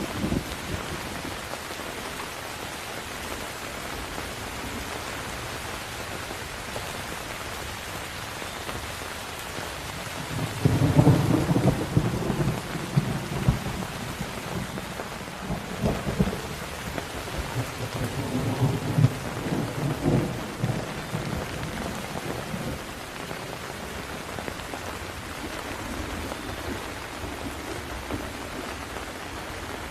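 Steady rain falling, with a long roll of thunder rumbling in about a third of the way through, swelling again a couple of times and fading away after ten seconds or so.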